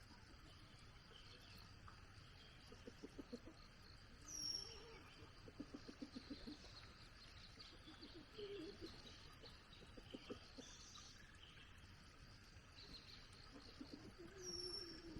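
Faint birdsong: a short high whistled call that sweeps downward, heard about 4 s in and again near the end. Low, quick stuttering calls are scattered through it.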